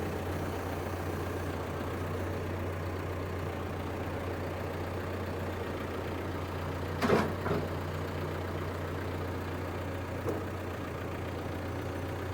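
John Deere 310SK backhoe's diesel engine running steadily with a low, even hum. A couple of short knocks about seven seconds in and a fainter one about ten seconds in.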